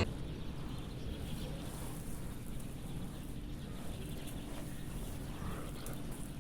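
Outdoor ambience: a steady low rumble of background noise with a few faint bird calls.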